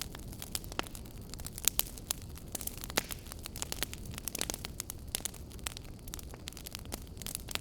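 Wood fire crackling in a fireplace: irregular snaps and pops over a low, steady rumble, with a few louder pops a couple of seconds in and again about three seconds in.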